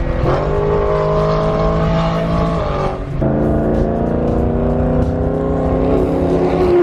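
Car engine accelerating hard under full throttle, its pitch climbing steadily. There is a brief dip about three seconds in as it shifts up a gear, and then it climbs again.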